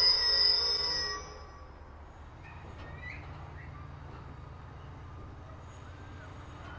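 Container wagons of a freight train rolling slowly past, their wheels squealing loudly on the rails for the first second or so. The squeal then stops, leaving a low steady rumble of the wagons running over the track, with a few faint chirps.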